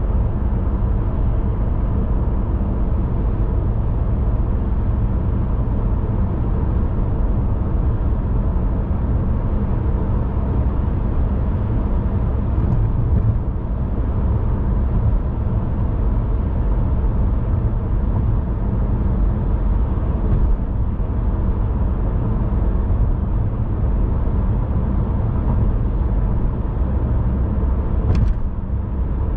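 Car driving at a steady pace: a constant low road-and-engine rumble with a hiss over it. There is one brief click near the end.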